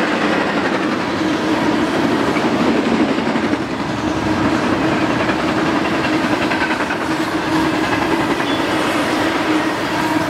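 Double-stack intermodal freight train's container cars rolling past: a steady, continuous rumble of steel wheels on the rails.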